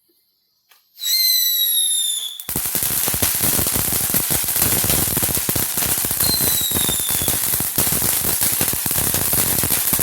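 Consumer fireworks going off: about a second in, a shrill whistle that falls slightly in pitch. Then a dense, rapid crackle of small bangs runs on without a break, with a second brief whistle midway through.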